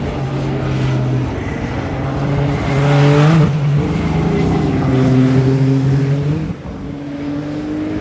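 Hypercar prototype race cars passing at speed, several engine notes overlapping and shifting in pitch, loudest about three and five seconds in, then falling away.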